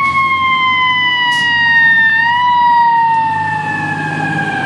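American fire truck siren wailing: one long, slow fall in pitch after a rise, over the low rumble of the truck and traffic.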